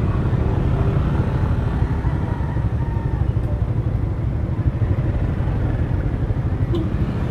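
A motorcycle engine idling steadily close by, a low rumble with a fast, even throb.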